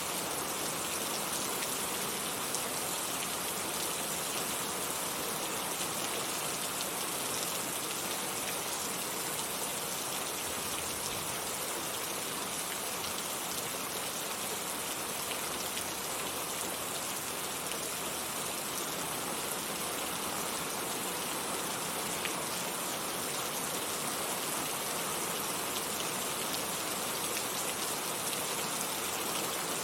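Heavy rain falling steadily, a dense even patter of drops on surfaces with no let-up.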